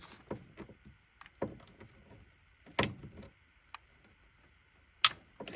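A few scattered sharp metallic clinks and knocks of a socket wrench on an extension working at an engine's intake manifold bolt. The loudest knock comes near the end.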